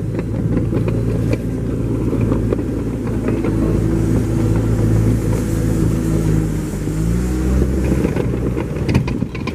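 Car engine running while driving, with road noise underneath; the engine note shifts in pitch about seven seconds in.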